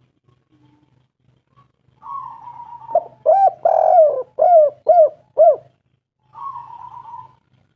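Spotted dove cooing: a run of about six loud, short arched coos between about three and five and a half seconds in, with a fainter buzzy note before them and another near the end.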